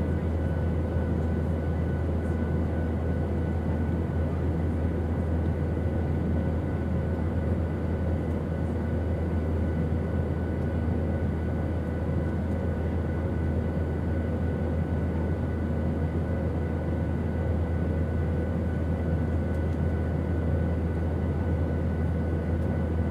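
Airplane engine drone: a steady low rumble with faint high steady whining tones over it, unchanging in level.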